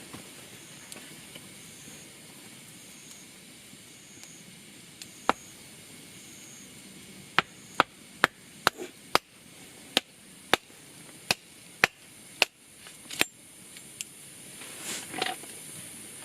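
Wood being chopped with a blade. There is one strike about five seconds in, then about a dozen sharp strikes roughly every half second. A short rustle comes near the end, over a steady faint hiss.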